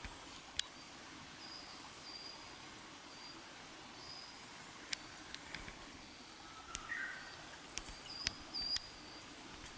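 Small wild birds calling in woodland: short high whistled notes repeated every second or so, with a lower twittering phrase about seven seconds in and scattered sharp clicks.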